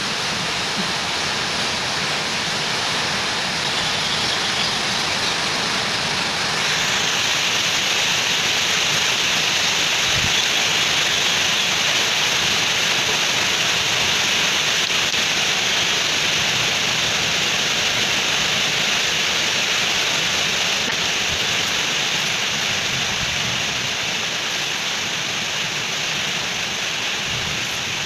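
Steady rushing, hissing noise with no distinct events, turning brighter and more hissy about six and a half seconds in.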